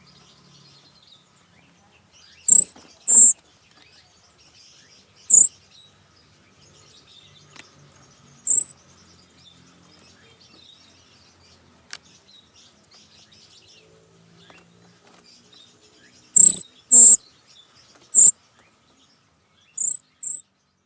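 A bird giving short, sharp, high-pitched calls, singly and in quick pairs, at irregular intervals, about nine in all.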